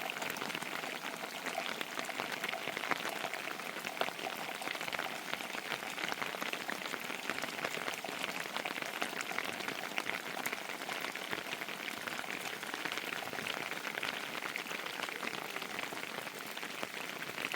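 Steady heavy rain, an even hiss of many small drop impacts that goes on without a break.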